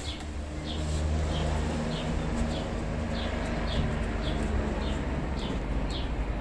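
A bird calling with a short, slightly falling high chirp, repeated about twice a second, over a steady low rumble.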